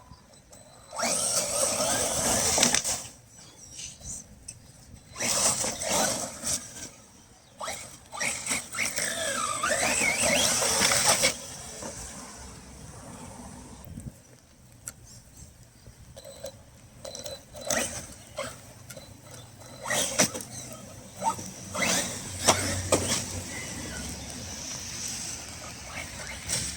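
Redcat Kaiju EXT brushless RC monster truck driving in bursts of a few seconds on wet ground, its motor whining up and down, with quieter gaps between runs.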